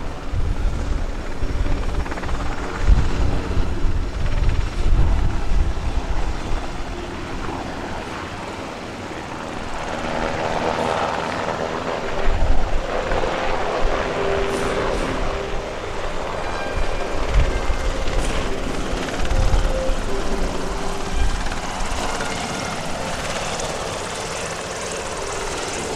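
Sikorsky UH-60 Black Hawk helicopters flying past, low rotor-blade thudding over turbine noise. The thudding swells and fades in waves as the helicopters move.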